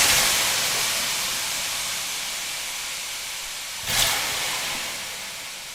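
A hissing noise swell, like an edited whoosh effect, that starts abruptly and slowly fades, with a second short swell about four seconds in.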